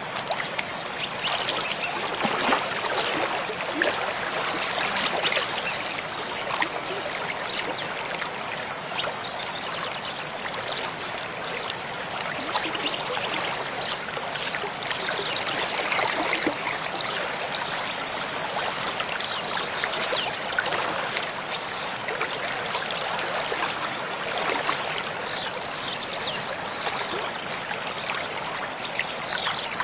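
Mountain stream flowing, a steady rush of water with many small splashes.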